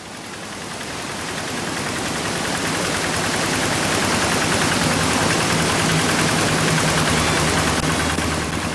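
Single-cylinder diesel engine of a Quick G1000 two-wheel hand tractor running steadily and loudly, fading in over the first couple of seconds.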